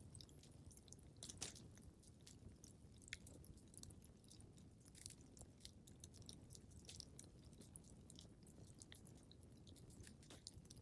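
Wood fire in a fireplace crackling quietly: many small irregular pops and snaps over a low steady rumble.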